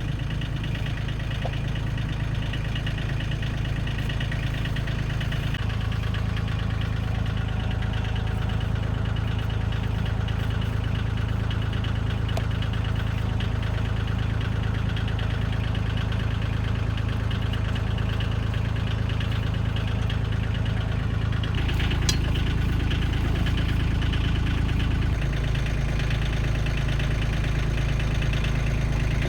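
Car engine idling steadily, its low note shifting a few times as the idle changes, with one brief click partway through.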